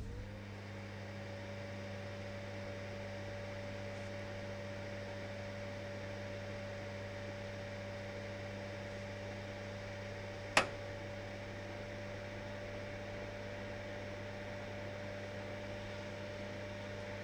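oZeanos OT-EK-02 electric fireplace heater's turbine blower fan running with a steady low hum and a steady mid-pitched tone, rising slightly in pitch just after the start: not too loud, not quiet. A single sharp click about ten and a half seconds in.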